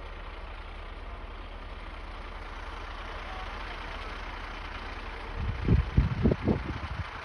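Wind buffeting the microphone outdoors: a steady hiss with a low hum under it, then a cluster of loud, low gusts hitting the mic for about a second and a half after five seconds in.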